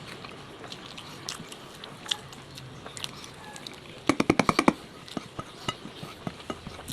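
Close-up eating noises: scattered small clicks and crunches of chewing and biting. About four seconds in, a loud, rapid run of about eight short pitched pulses lasts roughly half a second.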